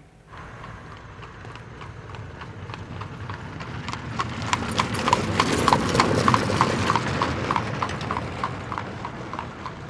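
Horse-drawn cart: a horse's hooves going clip-clop at a steady walk, about three beats a second, over a low rumble. It grows louder toward the middle and fades again as it passes.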